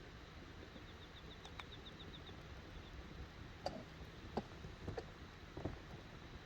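Wood campfire crackling, with four sharp pops in the second half over a faint steady hiss. A faint, fast high ticking, about five a second, runs for a couple of seconds in the first half.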